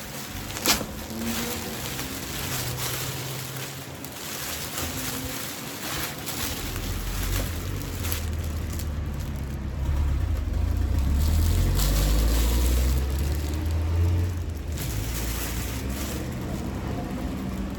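Plastic gift-basket bag being handled and pulled around a basket, with irregular rustling and crinkling and a sharp click about a second in. A low rumble joins in from about the middle and fades before the end.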